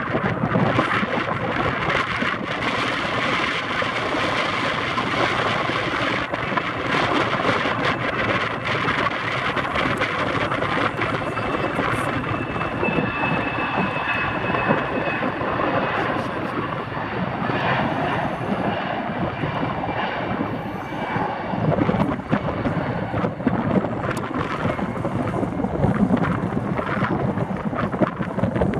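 Airbus A380's four jet engines on landing approach: a steady, even engine noise without a clear pitch.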